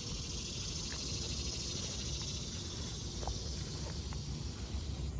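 Steady high insect chorus, with a low rumble underneath and a few faint ticks.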